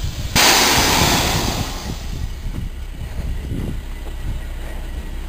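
Milk tanker truck's diesel engine running with a low steady rumble. About half a second in, a sudden loud hiss cuts in and fades away over a second or so.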